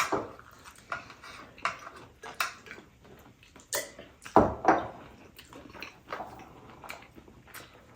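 Eating at a table: irregular clicks and taps of utensils against plates and bowls, with mouth sounds of chewing momos. There is a louder knock about four and a half seconds in.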